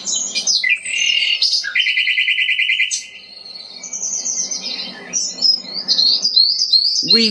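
Songbirds singing and chirping, with several overlapping calls. A rapid, even trill runs for about a second near the two-second mark, and after a short lull a run of quick high notes follows toward the end.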